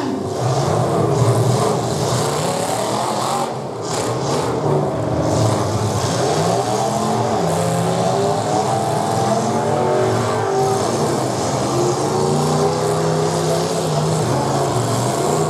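Demolition derby cars' engines revving hard, their pitch rising and falling again and again as the cars drive and spin their wheels in the dirt.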